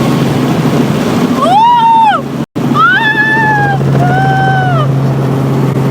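Helicopter cabin noise: a loud, steady drone with a constant low hum. Three long high-pitched calls rise and fall over it, and the sound cuts out for an instant about halfway through.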